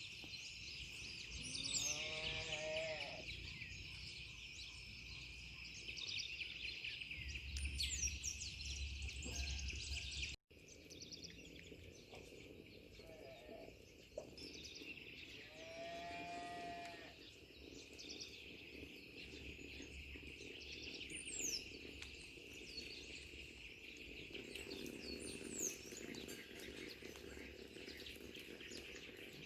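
Cattle mooing twice, once about two seconds in and again about halfway through, over a steady chorus of insects and scattered bird chirps.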